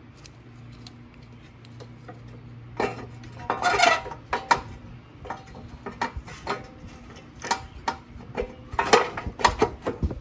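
Irregular metallic clicks and clatters as an engine cover and its parts are handled and fitted back onto a small Briggs & Stratton mower engine, loudest in two clusters about a third of the way in and near the end.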